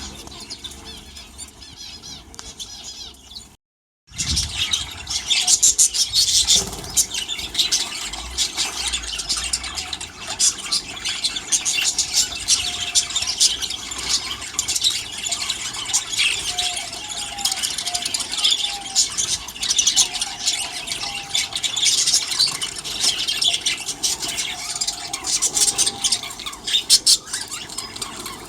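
A flock of aviary birds chattering and squawking, many high calls and sharp clicks overlapping. It is fainter for the first few seconds, breaks off in a moment of silence, then comes back much louder.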